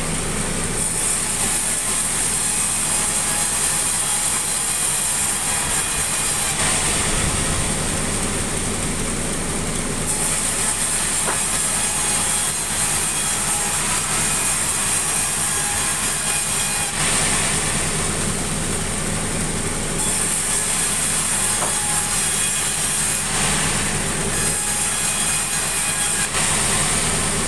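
Sawmill machinery running steadily, an engine-driven saw cutting sengon timber, with a loud hiss from the cut that swells and eases every few seconds as the wood passes the blade.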